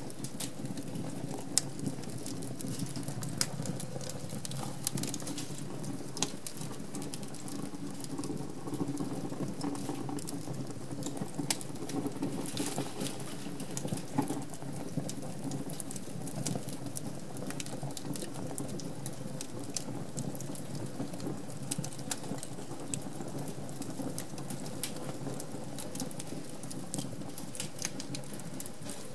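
Wood fire crackling in a fireplace: a steady low rush of burning logs, with frequent sharp pops and snaps at irregular times.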